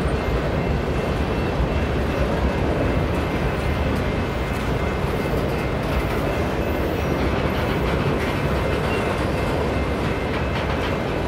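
Empty covered grain hopper cars of a freight train rolling past at steady speed: a continuous, even rumble of steel wheels on rail.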